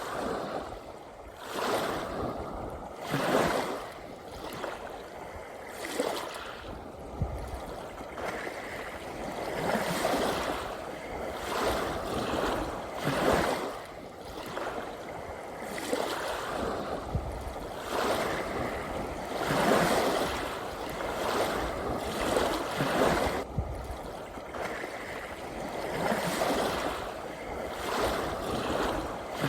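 Ocean waves washing and breaking on a shore, rising and falling in irregular surges every two to three seconds.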